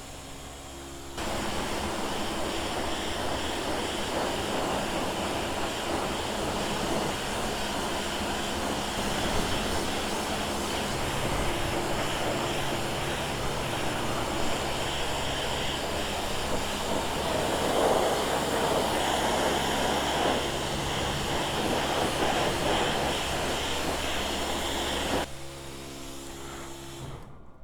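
Suzuki GSR 750's inline-four engine through an Ixrace Z7 aftermarket exhaust, riding under power with heavy wind rush over it. About a second in it opens up loudly; near the end it falls back to a lower steady note, then cuts off suddenly.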